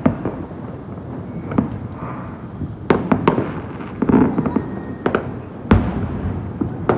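Fireworks going off: a run of sharp bangs at uneven intervals, about ten of them, with a steady rumble of further bursts between, the loudest bang about six seconds in.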